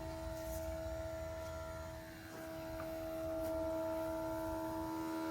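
A steady machine hum made of a few fixed, unchanging tones over a low rumble, dipping slightly about two seconds in.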